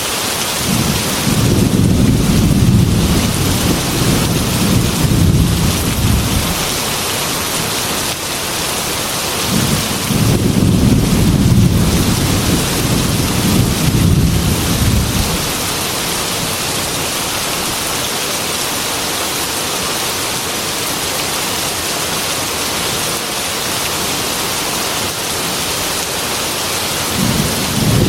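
Heavy rain falling steadily, with two long rolls of thunder of about six seconds each, the first right away and the second about ten seconds in; another roll begins near the end.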